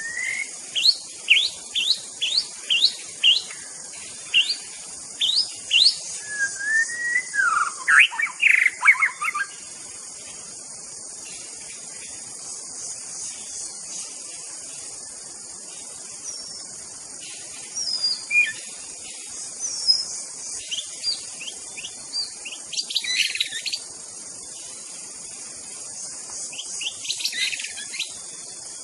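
White-rumped shama singing: a run of quick rising notes, then a louder tumbling phrase about eight seconds in. After a pause there are scattered notes and short phrases. A steady high insect buzz runs underneath.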